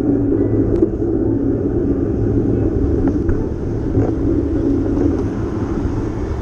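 Steady rumbling ride noise from a moving bicycle: wind on the microphone and tyres on the road, with a few faint clicks, easing slightly toward the end.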